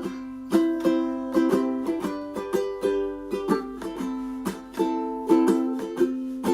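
Instrumental music on a plucked string instrument, like a ukulele, with notes picked and chords strummed in a steady rhythm.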